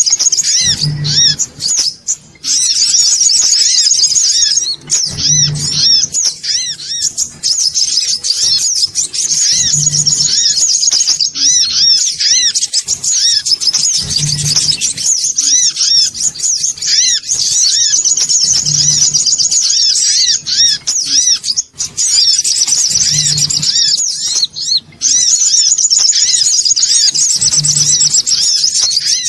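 Songon otong sunbird chattering fast and excitedly, a dense run of high, quick chirps used as a lure call, with a dull low thump about every four and a half seconds.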